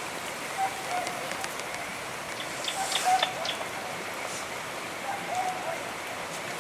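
Steady rain falling, with a bird calling in short, low, cooing notes several times, and scattered drip ticks.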